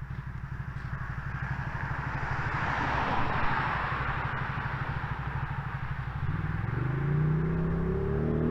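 Can-Am Outlander ATV V-twin running through an aftermarket exhaust: a low, pulsing engine note, then revving up about six seconds in, the pitch rising and holding high. The sound is loud under load.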